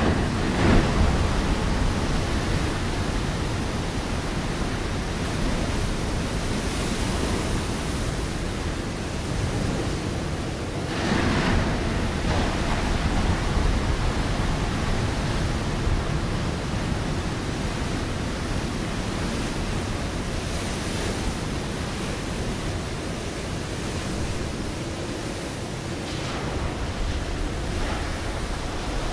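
Ocean waves breaking on a rocky shore: a steady wash of surf with a stronger crash about a second in and another, larger one about eleven seconds in.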